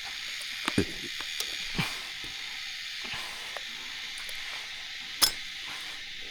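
A steady high hiss of outdoor forest ambience, with a few sharp knocks and snaps scattered through it, the loudest just past five seconds in.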